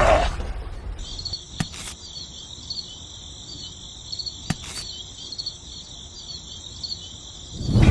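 Crickets chirping in a steady high, pulsing trill that starts about a second in and cuts off abruptly near the end, with two faint clicks in between.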